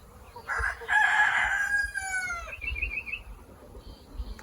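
Rooster crowing once, a long call of about two seconds that falls in pitch at its end, followed by a quick run of short high notes.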